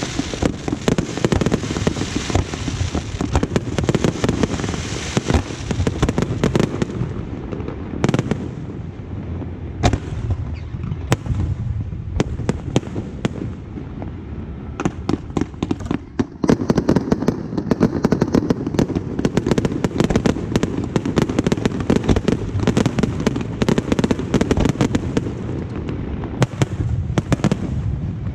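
Aerial fireworks display: a dense, continuous barrage of shell bursts, bangs and crackling that eases a little in the middle and builds again after about sixteen seconds.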